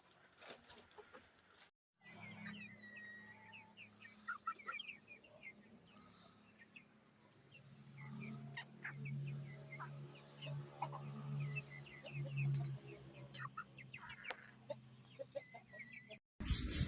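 Chickens clucking, with many short high chirps and calls, over a low steady hum. The sound cuts out briefly about two seconds in and again just before the end.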